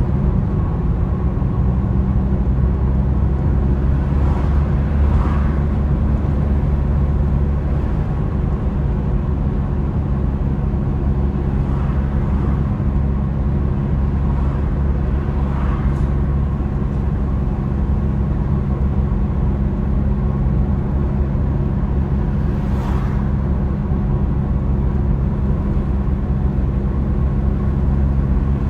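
Car on the move: steady engine hum and road noise, with a few brief whooshes swelling and fading and one short click about halfway through.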